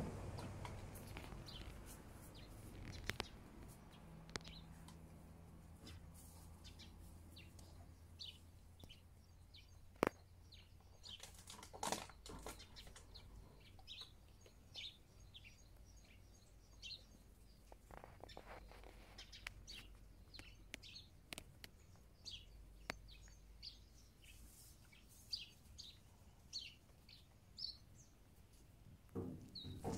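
Small birds chirping faintly, with short high notes repeated many times. A few sharp clicks stand out, the loudest about ten seconds in.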